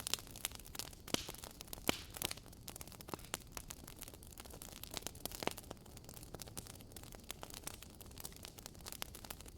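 Wood fire crackling: irregular snaps and pops of burning wood, a few louder ones, over a soft steady hiss of the flames.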